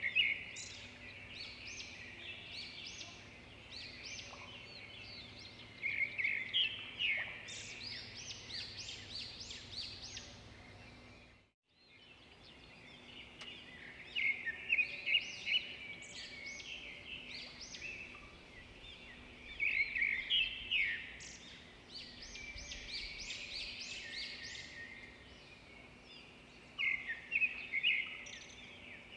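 Swiftlets twittering in dense bursts of fast, high chirping trills, with the sound cutting out briefly near the middle.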